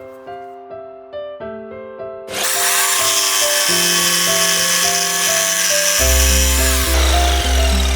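Power tool running steadily for about five seconds, starting about two seconds in, over background music that gains a heavy bass beat near the end.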